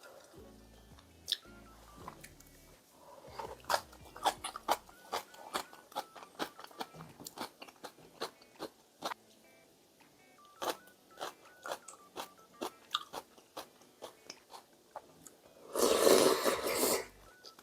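Close-up eating sounds: a person chewing and biting food, with many short crisp clicks and crunches, then a loud noisy burst lasting about a second near the end.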